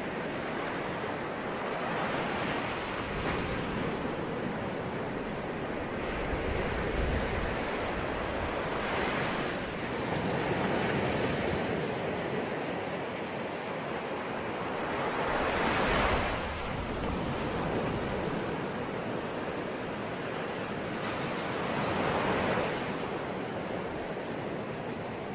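Ocean waves breaking and washing ashore, surf rising and falling in swells about every six or seven seconds, the biggest wave about two thirds of the way through, over a steady wash of sea and wind.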